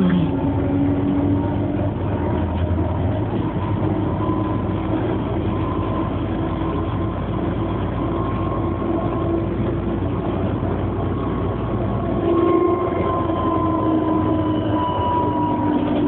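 Bombardier TVR rubber-tyred tram running on electric power, a steady ride noise with a motor whine that rises slightly and then falls away near the end.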